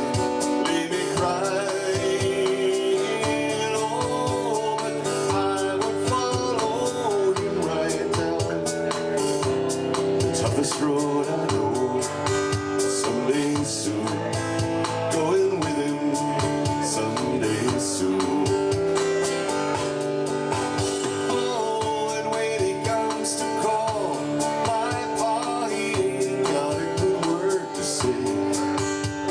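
A man singing a country-folk song to his own strummed guitar.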